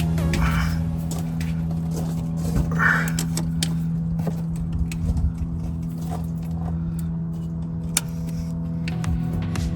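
Scattered metallic clicks and clinks of hand tools and connectors being worked under a pickup, with a few sharper taps about five and eight seconds in, over a steady low hum.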